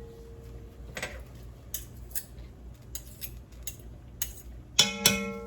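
Kitchen utensils and cookware being handled: light scattered clicks and taps, then two sharp metallic clinks near the end that ring on briefly, like a metal spoon striking a pot.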